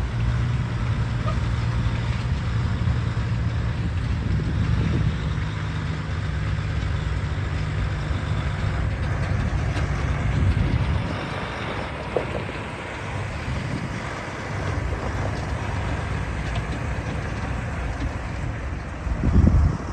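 Diesel engine of a 2005 Peterbilt tandem-axle truck running steadily. Its sound drops off about halfway through, and a short loud low rumble comes near the end.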